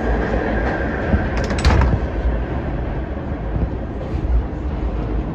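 Subway train running on the rails with a steady heavy rumble. A brief cluster of clicks and squeaks comes about one and a half seconds in.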